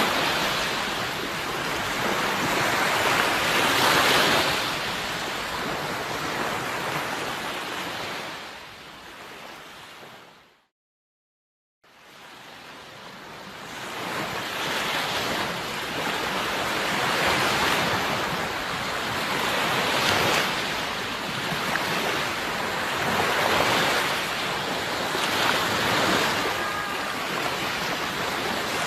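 Sea surf, waves breaking and washing in swells every few seconds. About ten seconds in the sound fades out to a second of silence, then fades back in.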